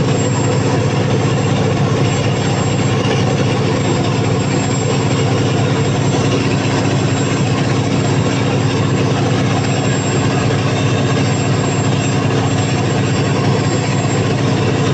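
Freshly overhauled Cummins KTA50 V16 turbocharged diesel generator engine running at constant speed under a 750 kW load test. A loud, even drone with a thin high-pitched whine over it.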